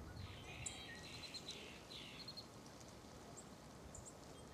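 Faint outdoor birdsong: several songbirds chirping, with a run of quick repeated notes in the first two seconds, over a low, steady background rumble.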